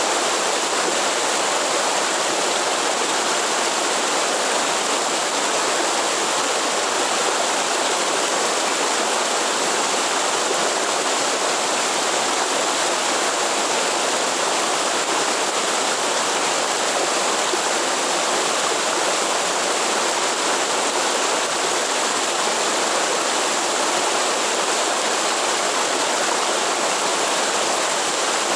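Waterfall, with water pouring and splashing in a steady, unbroken rush.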